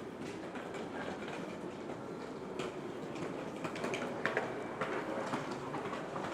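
A steady low rumble with irregular clicks and knocks, some ringing briefly, becoming busier from about halfway through.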